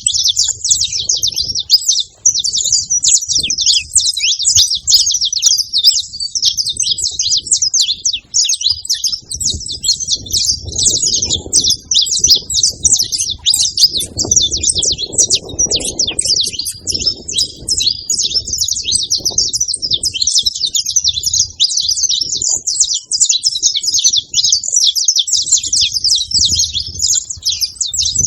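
Saffron finch singing: a fast stream of high chirps and trills that runs on without a break.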